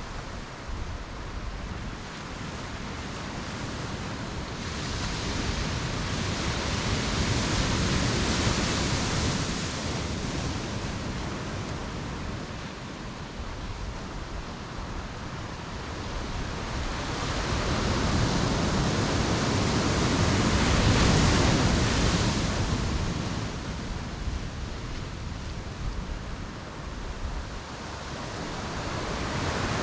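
Ocean surf breaking on the shore: a steady wash of waves, with two larger surges that swell and fade, peaking about a quarter and two thirds of the way through.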